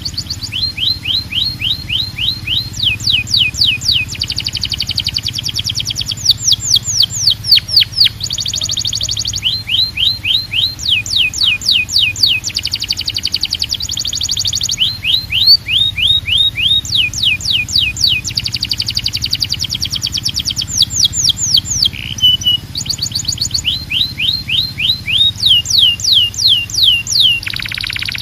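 Canary singing a continuous song of rapid trills and rolls: runs of quick, evenly repeated falling notes that switch to a new pattern every second or two. A steady low hum lies underneath.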